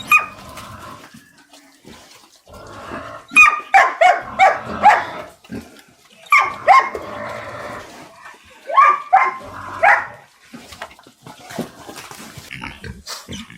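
Pigs squealing and grunting in three loud runs of short, rapid calls, several calls in each run, with quieter grunting in between.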